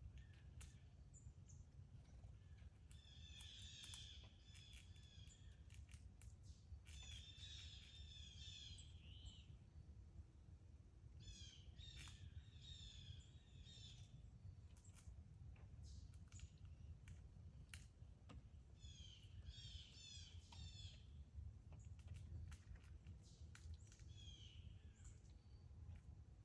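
A songbird singing faintly: a short phrase of rapid, repeated high notes, given five times with pauses between. Scattered sharp clicks and a low background rumble run under it.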